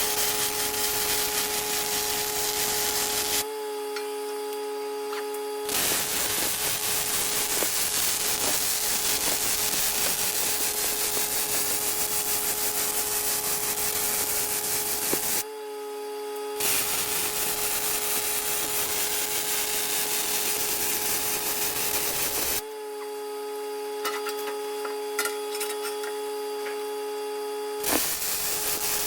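A power tool running with a steady whine, working against material in long passes. The scraping noise stops three times, about 4, 16 and 23 seconds in, for a few seconds each, leaving only the tool's whine.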